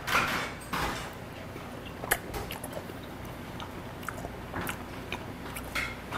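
Close-up chewing of raw beef liver: soft wet mouth sounds with a few short clicks and smacks scattered through.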